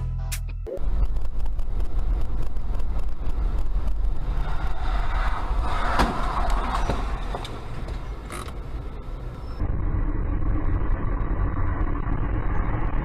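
Vehicle road and engine noise as heard from a dashcam, with a sharp knock about six seconds in. The sound changes abruptly near ten seconds in, as one recording gives way to another.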